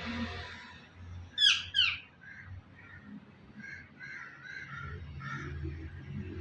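A pet parrot gives two sharp, loud screeches about a second and a half in, each sweeping quickly down in pitch, then softer, shorter chattering calls.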